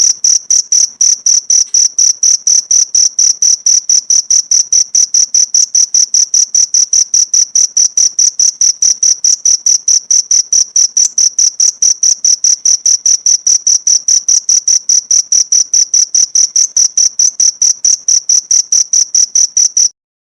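A cricket chirping loudly and steadily: short, evenly spaced high-pitched chirps, about five a second, that cut off suddenly near the end.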